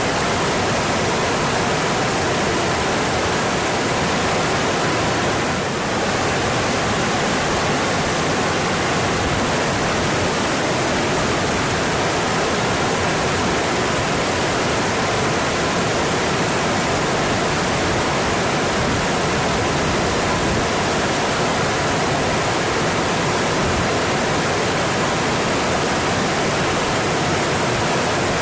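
Mountain stream flowing: a steady, even rush of water, dipping slightly for a moment about six seconds in.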